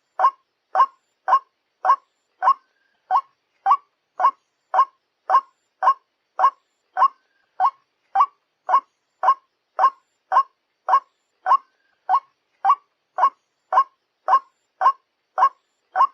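White-breasted waterhen calling: one short note repeated at an even pace, a little under two a second.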